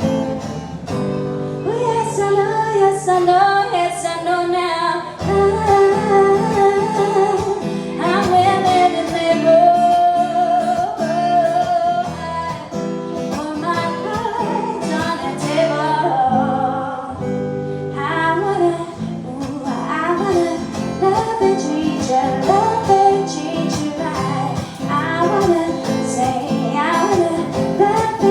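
A woman singing with acoustic guitar accompaniment, a live song performance.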